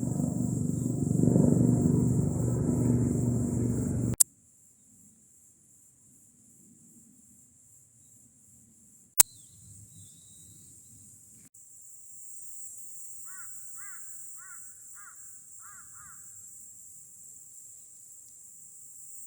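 Steady, high-pitched insect trilling runs throughout. For the first four seconds a loud low rumble with a hum sits under it and cuts off with a sharp click; another click comes about nine seconds in, and a run of five short chirps sounds around two-thirds of the way through.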